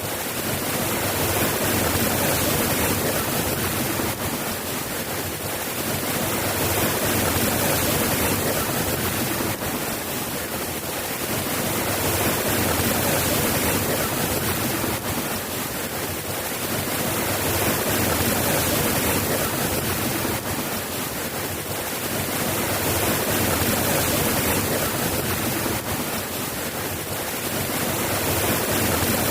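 Steady rain falling, an even hiss that swells and eases gently every five or six seconds.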